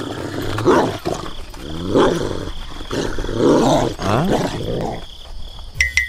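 Deep dog vocal sound effect: a string of low, rising calls, about one a second.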